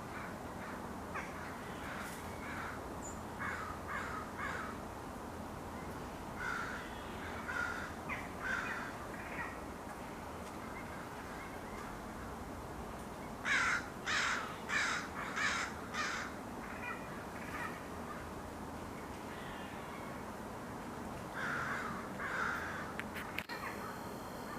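Crows cawing in several short bouts, the loudest a run of five harsh caws about halfway through, over a steady background hiss.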